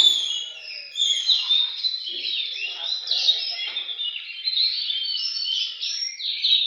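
Oriental magpie-robin (kacer) song: a continuous, dense run of rapid, varied whistles, trills and chirps that starts suddenly.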